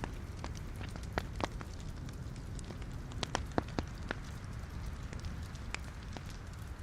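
Wood fire burning in a fireplace: a steady low rush of flames with irregular sharp crackles and pops from the logs, a cluster of louder pops around the middle.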